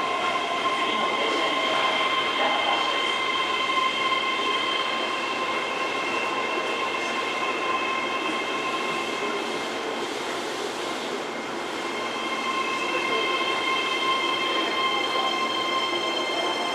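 Keihan 3000 series electric train running, with a steady high squeal of several unchanging tones over the running noise. The squeal fades for a moment about two-thirds of the way through, then returns.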